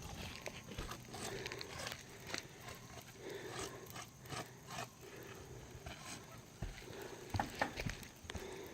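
Faint, irregular scuffs and taps of shoes stepping on an asphalt shingle roof.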